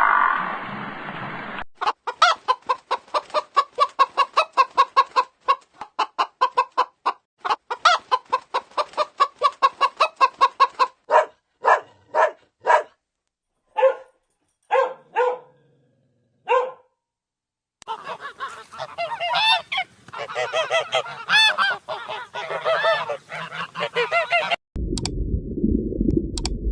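Farm poultry calling: a quick run of repeated clucking calls, a few times a second, that slows to single calls, then after a short pause a flock calling over one another. A different low rumbling sound begins near the end.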